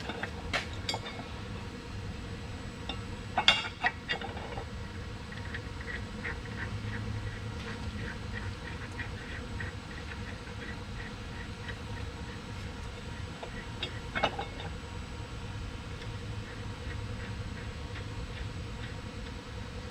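Hand tools on steel: a few sharp metal clanks, loudest about three and a half seconds in and again around fourteen seconds, with a run of light, evenly spaced ticks in between.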